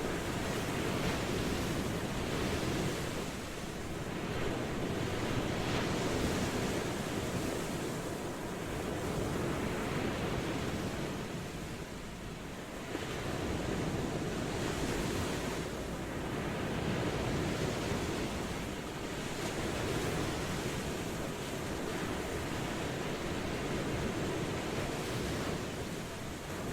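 Ocean surf washing onto a shore: a continuous rush of breaking water that swells and eases every few seconds.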